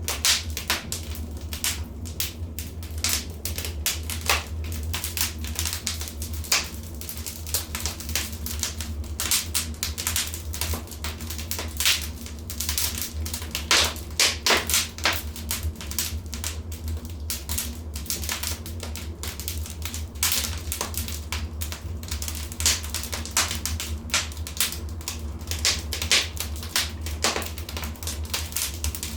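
Wood fire in a fireplace crackling, with dense irregular snaps and pops over a steady low hum.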